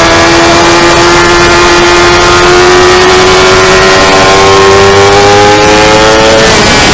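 Motorcycle engine pulling hard in one gear, its pitch climbing steadily for about six seconds, then dropping sharply near the end as it shifts up. The engine sounds over a steady rush of noise.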